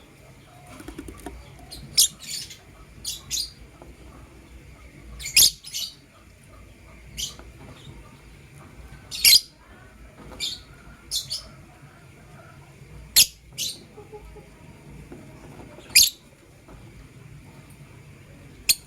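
Lovebirds giving short, sharp, high-pitched chirps, some single and some in quick pairs, every second or two.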